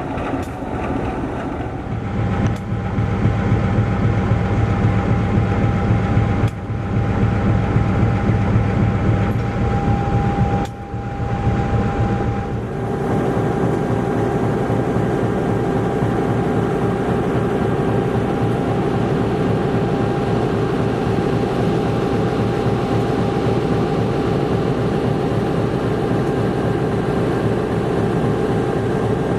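Diesel locomotive running steadily, a heavy mechanical drone with a faint steady whine above it. The sound shifts about 13 seconds in, and a different steady tone comes in.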